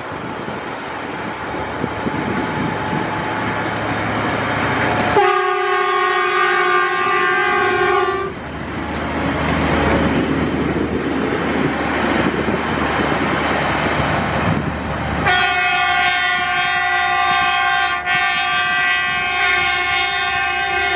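Railway track maintenance train approaching and passing with a rumbling, rattling run on the rails, sounding its horn twice: a blast of about three seconds some five seconds in, then a longer one from about fifteen seconds in.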